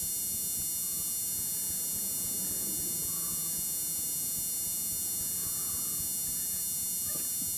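Steady low rumble and hiss of a car moving along a street, under a high, steady electrical whine.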